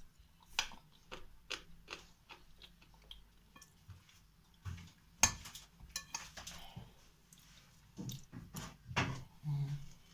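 Close-up mouth sounds of a person chewing spoonfuls of a soft chocolate cake made of crushed biscuits, with small smacks and clicks throughout. A spoon clinks sharply on the plate about five seconds in.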